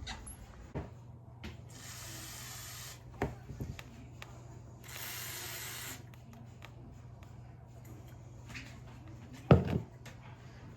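WD-40 aerosol can spraying in two hissing bursts of about a second each, lubricating squeaky cabinet hinges. Short knocks come between the sprays, and a louder knock near the end.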